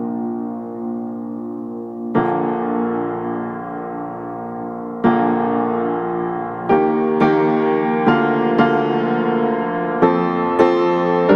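Background piano music: sustained chords struck every few seconds at first, then notes coming faster in the second half.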